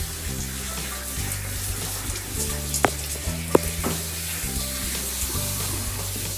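Shower spray hissing steadily as a cat is rinsed at a washbasin, over background music with a slow bass line. Two sharp clicks stand out a little before and just after the middle.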